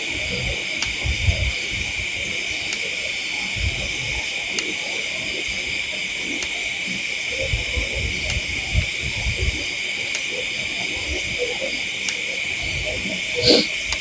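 Steady night insect chorus in jungle, with a faint tick about once a second, the 'tick tick' sound heard from outside the tent. Low rumbles come and go, and a brief louder sound rises near the end.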